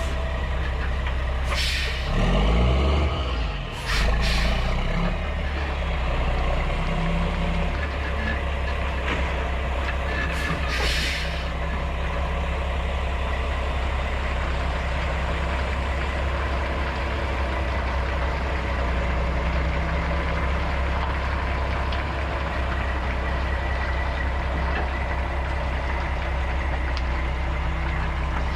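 Mack truck's diesel engine running steadily under way, heard from the cab, with a surge in engine pitch a couple of seconds in. Short hisses of air come about two, four and eleven seconds in.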